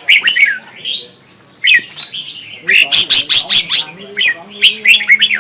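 Red-whiskered bulbul singing: short, loud, slurred whistled notes that fall in pitch, with a quick run of sharp high notes about three seconds in.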